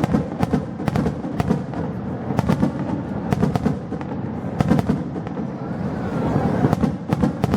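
Fireworks going off in a rapid, irregular string of sharp cracks and booms, two or three a second, over a steady rumble.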